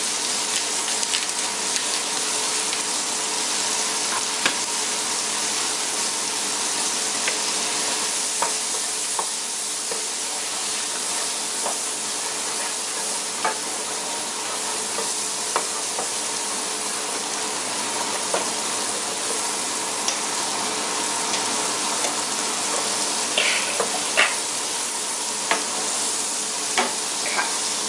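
Mushrooms frying in brown butter in a pan, a steady sizzling hiss as they cook down, with scattered light clicks and pops.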